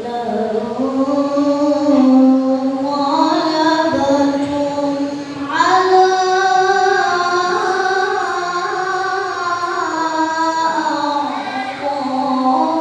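Quran recitation by a solo male voice, chanted in long, ornamented held phrases. About halfway through, a new phrase starts at a higher pitch.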